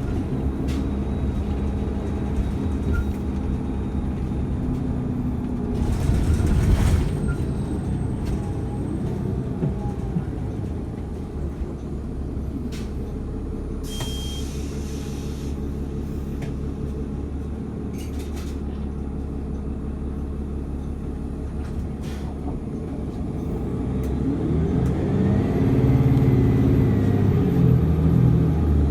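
Steady low rumble of a moving transit vehicle heard from inside, with a short hiss about six seconds in and another around fourteen seconds. The rumble grows louder near the end.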